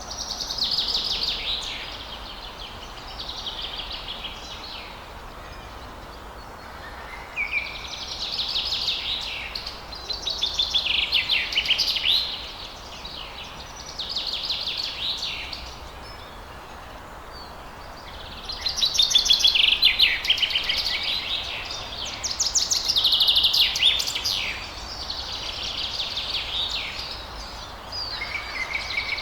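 Songbird singing a run of high, rapid trilled phrases, each lasting one to two and a half seconds with short pauses between, over a steady faint background hiss.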